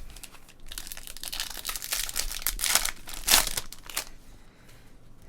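Trading-card pack wrapper crinkling and tearing as it is opened by hand: a run of crackly rustling for about three seconds, loudest near the end of that run.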